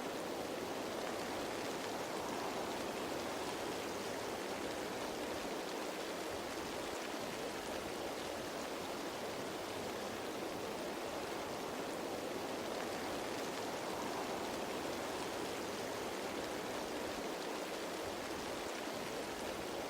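Steady rain falling on leaves: a continuous, even hiss of raindrops with no single drop standing out.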